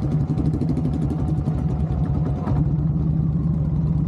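Motorcycle engine running steadily at low speed, a continuous low engine note with even pulsing.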